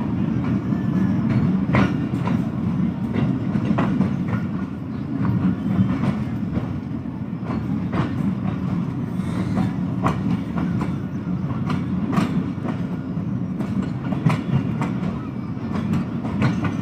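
Passenger train running along the track: a steady rolling rumble, with the wheels clicking over rail joints many times.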